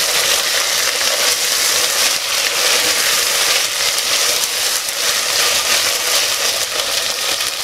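Chopped vegetables and onions sizzling in hot oil in a pressure cooker as they are stirred, a steady hiss of frying.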